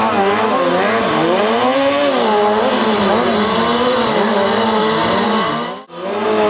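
Stunt motorcycle's engine revving hard, its pitch rising and falling over and over as the throttle is worked. It cuts out sharply for a moment near the end, then picks up again.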